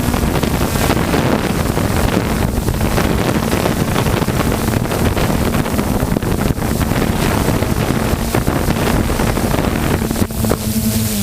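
A motor vehicle engine running steadily, with wind buffeting the microphone; the engine's steady note comes through more clearly near the end.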